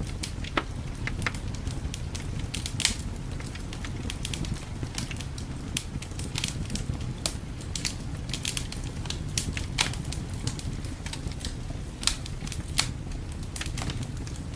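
Wood fire crackling, with irregular sharp pops and snaps, a few louder than the rest, over a steady low rumble.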